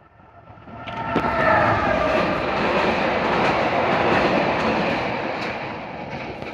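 A train passing close by at speed: the sound builds up within about a second to a loud, steady rush of wheels on rail, with a few tones sliding slightly downward in pitch as it arrives and scattered clicks from the rail joints, then eases off near the end.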